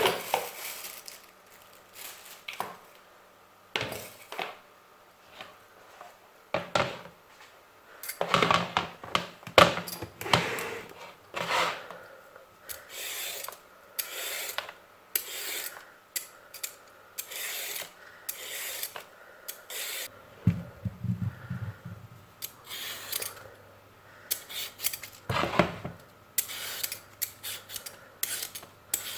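A run of irregular scraping and rubbing strokes with occasional clatters, as of objects being handled by hand.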